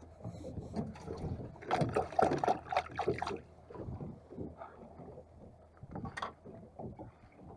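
Water lapping and splashing irregularly against the hull of a small boat, with wind buffeting the microphone; a louder run of splashes comes about two seconds in.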